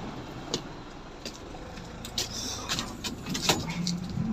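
Low background hum with a handful of short, sharp clicks and knocks, the loudest about three and a half seconds in.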